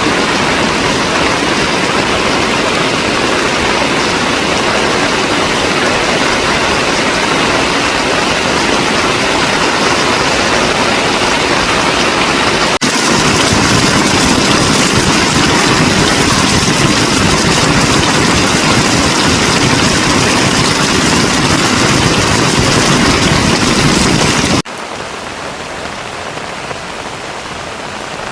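Heavy rain falling as a steady hiss, edited together from separate takes: about halfway through it jumps louder and brighter, and near the end it drops suddenly to a softer patter.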